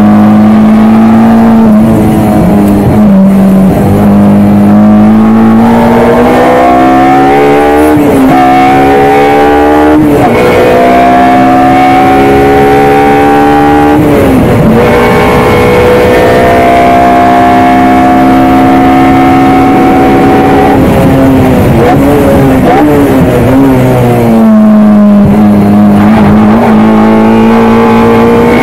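Honda K20A four-cylinder engine of a Civic FD2 Type R at full throttle, heard from inside the cabin. The revs climb repeatedly, dropping sharply at each gearshift. Past the middle comes a stretch where the revs jump up and down quickly several times, then it holds low and steady before pulling up through the revs again near the end.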